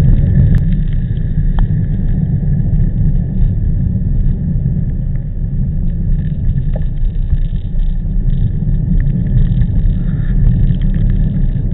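Wind buffeting the microphone while cycling through typhoon wind, a loud, uneven low rumble with no clear pitch.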